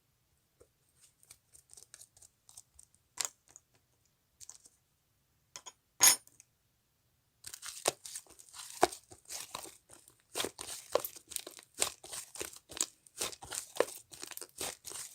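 Cream slime being stretched and pressed by hand: sparse sticky clicks with one sharp pop about six seconds in, then dense crackling and popping from about halfway on.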